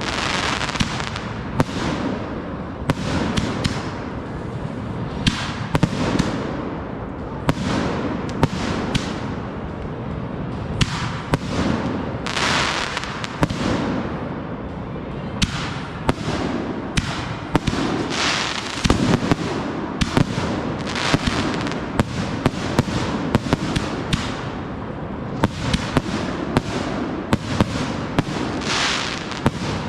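Consumer fireworks going off in quick succession: a steady barrage of sharp bangs, several a second, over a continuous rumble of launches and bursts, with crackling hiss trailing some of them.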